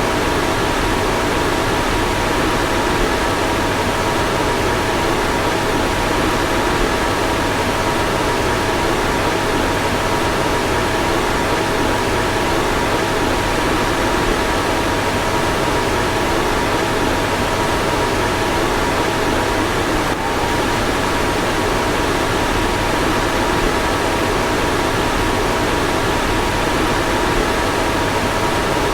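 A car's fan blowing steadily: an even rush of air with two faint steady whining tones, and a tiny blip about 20 seconds in.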